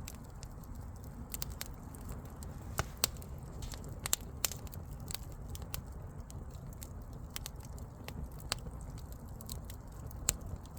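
Wood fire crackling: irregular sharp pops and snaps over a steady low rumble of the burning logs.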